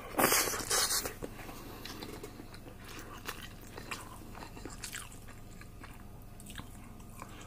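A person chewing a mouthful of rice close to the microphone, with many small wet mouth clicks; the chewing is loudest in the first second.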